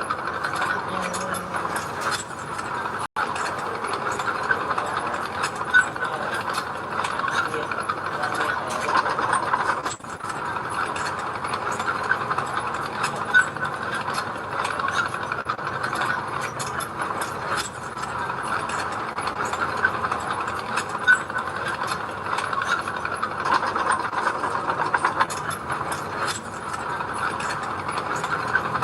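Heavy earthmoving machinery running steadily, with frequent clanks and rattles over the engine noise.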